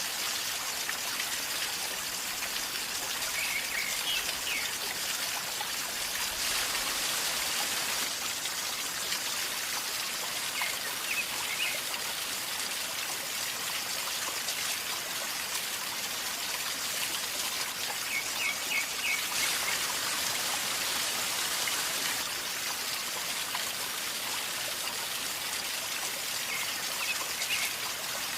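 River water flowing and gurgling steadily. A bird chirps briefly a few times over it.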